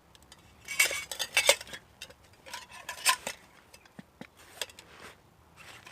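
Stainless steel mug, canteen and tongs clinking and clattering together as they are handled and packed into a canvas case, in short irregular bursts, busiest about a second in and again around three seconds in.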